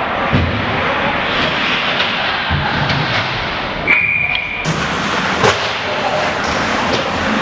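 Ice hockey game sound: a steady rink din with sharp thuds of puck and bodies on the boards, and a short referee's whistle blast about four seconds in.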